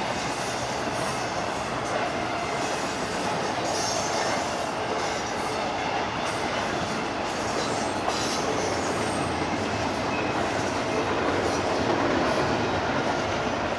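Freight train cars rolling steadily past, with steel wheels clattering on the rails and brief faint high squeals.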